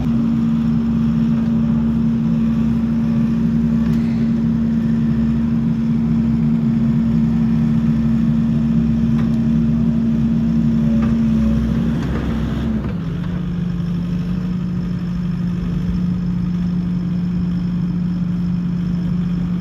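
Skid steer engine running steadily at high throttle, then dropping to a lower, steady engine speed about two-thirds of the way through.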